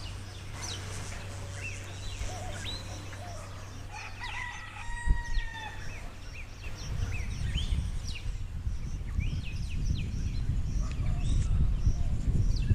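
A rooster crows once about four seconds in, amid many short chirps of small birds. Wind rumbles on the microphone, growing in the second half.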